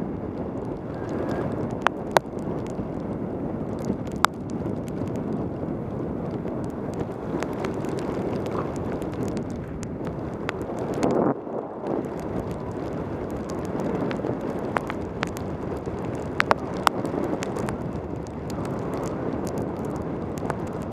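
Wind rushing over a helmet-mounted camera's microphone on a fast mountain-bike descent in pouring rain, mixed with tyre hiss on the wet road. Scattered sharp ticks throughout, with a brief surge of rushing about halfway through.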